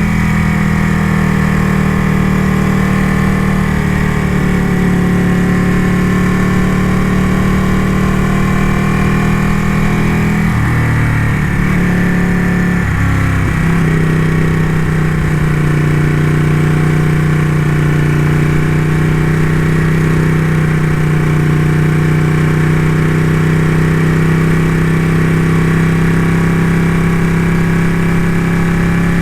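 Ducati motorcycle engine running under way at a steady speed. Its note drops and picks up again a couple of times about ten seconds in, then holds steady.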